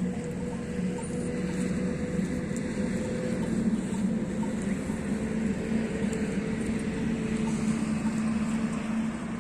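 Steady drone of a running vehicle engine: a constant low hum over rushing noise.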